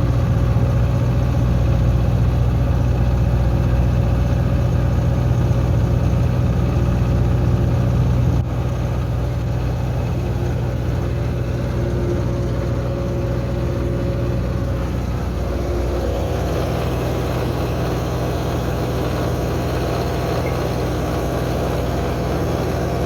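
Tractor engine running steadily under load, a drone that drops a little in loudness about eight seconds in and changes pitch pattern again about halfway through.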